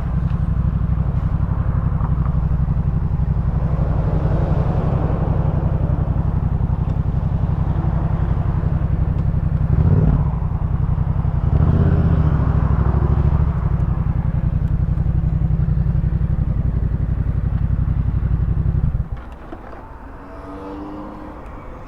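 Yamaha MT-07's 689 cc parallel-twin engine breathing through a full Jeskap K4 exhaust, running at steady revs with a brief change in revs around ten and twelve seconds in. About nineteen seconds in the engine sound drops sharply to a much quieter level.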